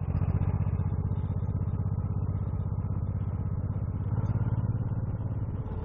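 Motorcycle engine running under way with a steady pulsing note, opening up at the start and easing off gradually.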